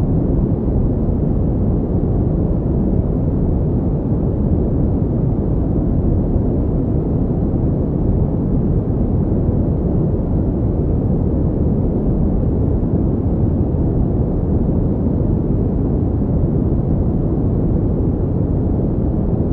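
Continuous pink noise: an even, unchanging rush weighted heavily toward the low end, with little hiss in the highs.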